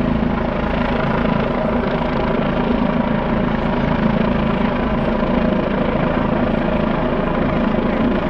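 Rescue helicopter hovering during a hoist rescue, its rotor and engine running steadily.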